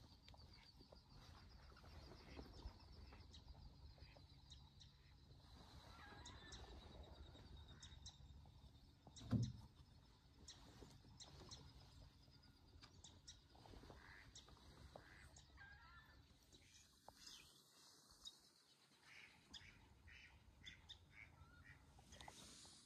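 Faint chirps and calls of small birds, with a trilling call in the first few seconds and one short low thump about nine seconds in.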